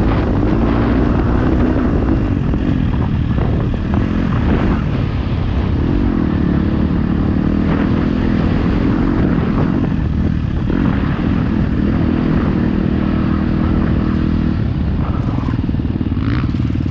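Motocross bike engine ridden hard round a dirt track, its revs climbing and dropping again and again as the rider throttles on and off and shifts gear.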